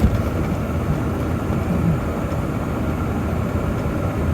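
Steady engine and road noise inside the cab of a 1993 Ford F350 with the 7.3 IDI diesel, cruising at highway speed.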